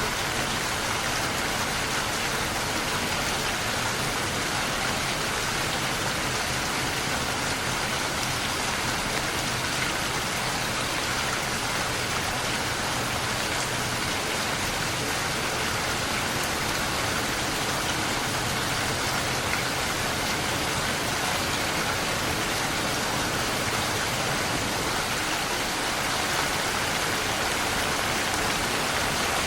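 Steady, continuous rainfall pattering on surfaces, unchanging throughout.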